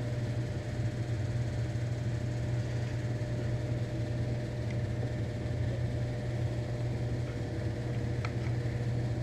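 Steady low mechanical hum with a faint higher steady tone above it, unchanging throughout; a couple of faint light clicks about eight seconds in.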